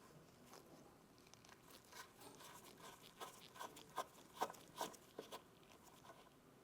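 Faint, irregular clicks and light scrapes of hands working on rusty rifle parts, bunched together in the middle of the stretch.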